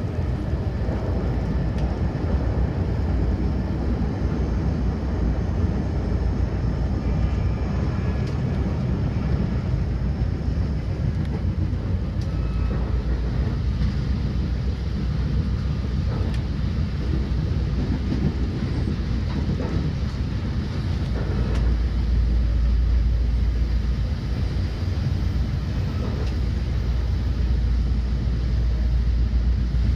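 Vitória–Minas train running along the track: a steady low rumble of wheels and carriages with faint clicks. The deep rumble swells about two-thirds of the way through.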